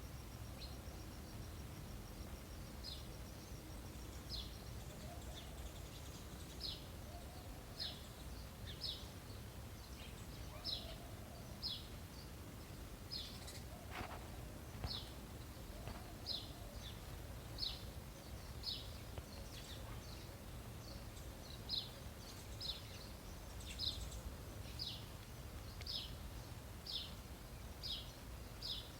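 A small bird giving short, high, downward chirps roughly once a second, over a low steady outdoor rumble.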